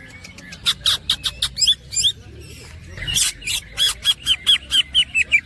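Cucak ijo (greater green leafbird) singing: rapid runs of short, sharp whistled notes, about five a second, in two bursts, the second starting about three seconds in.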